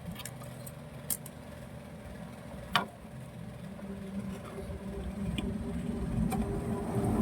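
Small motorcycle engine running steadily, getting louder toward the end, with two sharp clicks about one and three seconds in.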